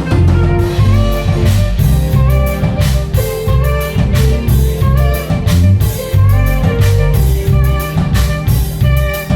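Saxophone playing a melody over an R&B backing track with a drum kit and a steady beat of heavy bass notes.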